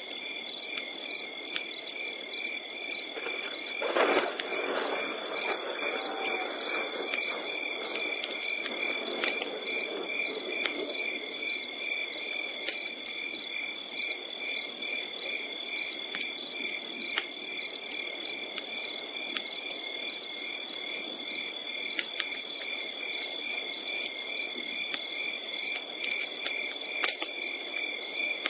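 Insects chirping steadily in a fast, even pulse over a steady high trill, with the crackle and sharp pops of a campfire underneath. A brief louder rush of fire noise comes about four seconds in.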